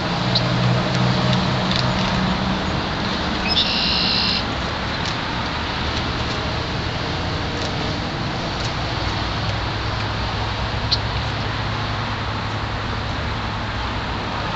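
Steady outdoor traffic noise with a low hum, a few faint clicks, and a brief high-pitched chirp about four seconds in.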